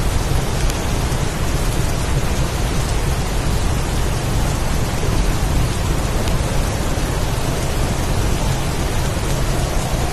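Heavy rain falling steadily in a storm, with a continuous low rumble underneath.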